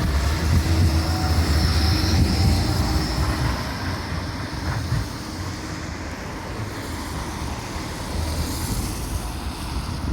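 Tram running on the rails, a low rumble of wheels on track that is loud for the first four seconds or so and then fades.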